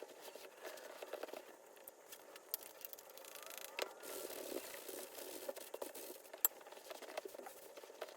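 Close-up handling sounds of work on an old leather baseball glove: irregular rubbing and rustling with scattered small clicks and taps.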